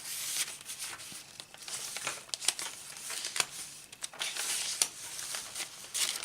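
Paper pages and inserts of a handmade journal rustling and crinkling as they are turned and unfolded, with a few sharper paper snaps.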